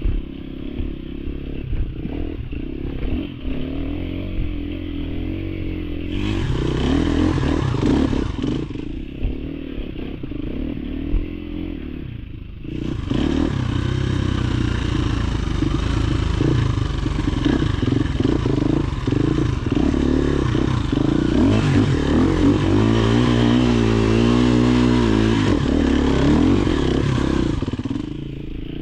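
Dirt bike engine running while riding a trail, its revs rising and falling, with louder stretches of throttle from about six to eight seconds in and again from about thirteen seconds in until near the end.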